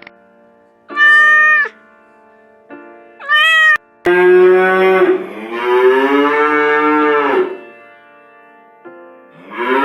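Domestic cat meowing twice in short calls, followed by a longer, drawn-out animal call that falls in pitch at its end, over soft background music.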